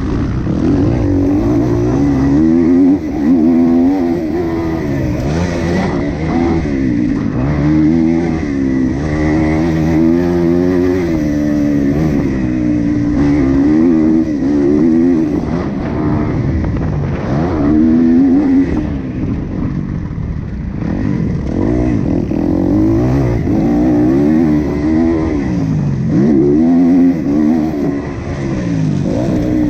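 Motocross dirt bike engine racing, its pitch repeatedly climbing under hard throttle and dropping as the rider backs off and shifts, about every second or two.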